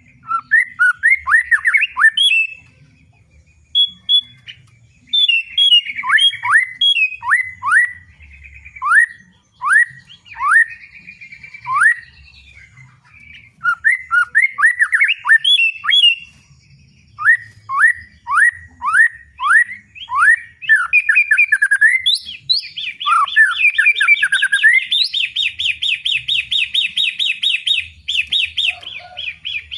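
White-rumped shama singing loudly. It gives phrases of clear whistled notes, each sweeping downward in pitch, with short pauses between them. From about 22 seconds it breaks into a long, fast, even trill.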